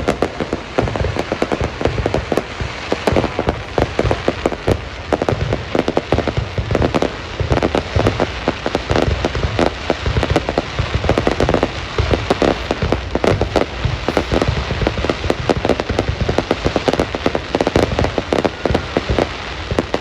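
A fireworks display going off in quick succession: a dense, continuous rattle of bangs and crackles with no pause.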